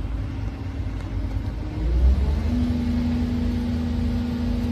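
Volvo excavator's diesel engine running with a deep rumble; about two seconds in it climbs in pitch and settles into a steady higher whine as the machine is put to work.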